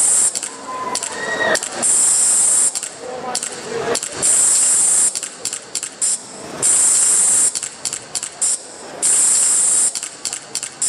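Spray-paint can hissing in a dance-routine soundtrack: four bursts about a second long, evenly spaced every couple of seconds, with short clicks between them.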